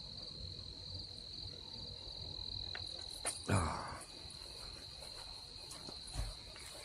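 Crickets chirring steadily in a high continuous trill. About halfway through a brief louder noise cuts in, and a soft low thump comes near the end.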